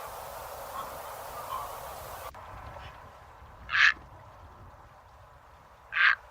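A bird calling in short single notes a couple of seconds apart, over a steady background hiss.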